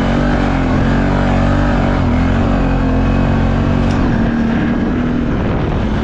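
ATV engine running steadily under load, its pitch wavering a little as the throttle shifts.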